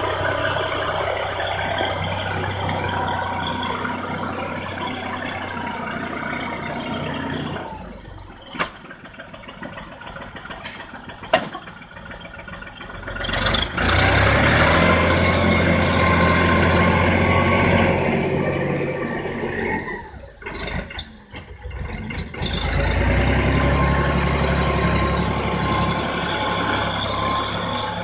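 Erkunt 70 tractor's diesel engine running. It falls away about eight seconds in, comes back up with a rising whine around fourteen seconds, dips again near twenty seconds and picks up once more.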